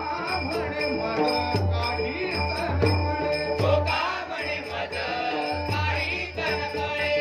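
Marathi devotional bhajan: a voice singing over sustained reed-like tones, with small hand cymbals clinking in a steady repeating rhythm and a low drum beating under it.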